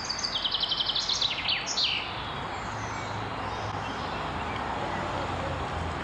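A songbird sings a fast trill of high notes that ends in a few quick falling sweeps, in the first two seconds. The background is an even outdoor noise, with a low steady hum through the latter part.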